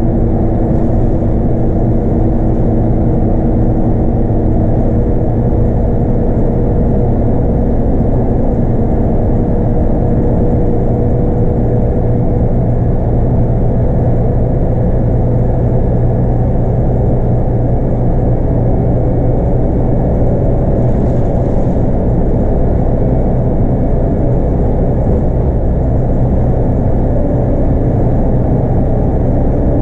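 Scania K230UB bus's 8.9-litre five-cylinder DC9 diesel with its ZF Ecomat automatic, running steadily under way. A dense, even drone with road noise, its pitch rising slightly a few seconds in and then holding.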